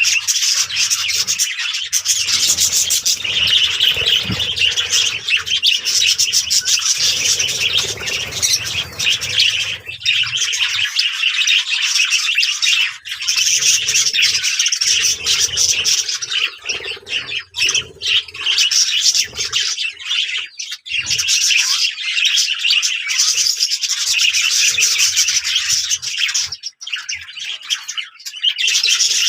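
Budgerigars chirping and chattering, a dense, continuous run of fast high warbling calls.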